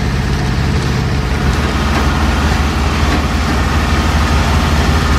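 Heavy-haul truck's diesel engine running steadily, a low, even engine note.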